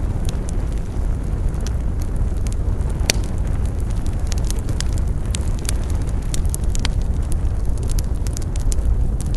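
Wood fire crackling, with irregular sharp pops and snaps over a steady low rumble. One loud pop comes about three seconds in.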